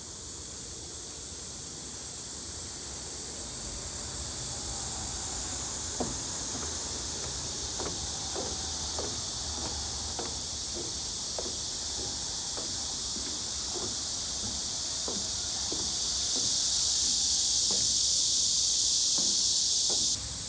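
Steady high-pitched drone of a summer cicada chorus in the trees. It swells louder near the end, then drops off suddenly.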